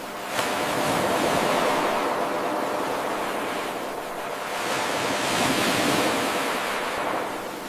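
Ocean waves washing on a shore, an 8-second looped recording: the surf swells, eases, swells again and eases. About half a second in, the loop restarts with an abrupt jump in level.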